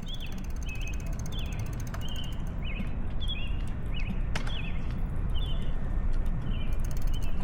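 A small bird chirping over and over, short high chirps every half second or so, above a steady low rumble of wind and road noise.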